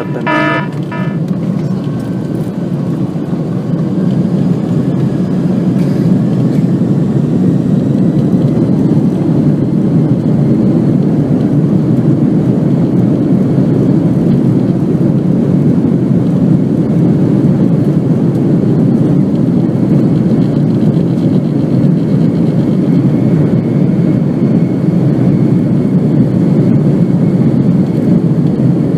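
Airbus A300-600 jet engines at takeoff power: a dense, steady low rumble that builds over the first few seconds and then holds loud. A short tone sounds at the very start.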